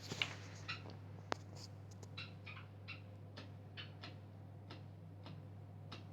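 Bosch Maxx 5 washing machine running: a steady low hum with irregular light clicks and ticks over it, one sharper click about a second in.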